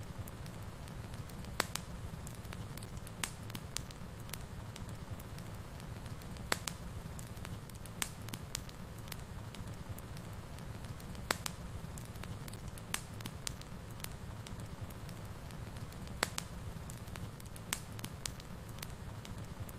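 Wood fire in a fireplace crackling, with sharp irregular pops every second or two over a steady low rumble of the flames.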